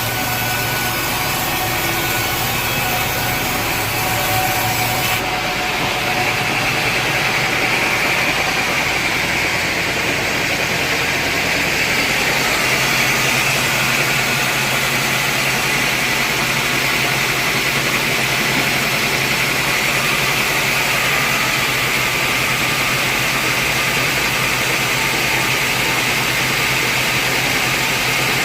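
Sawmill machinery running steadily: a continuous machine hum under a hiss, with the sound changing character about five seconds in.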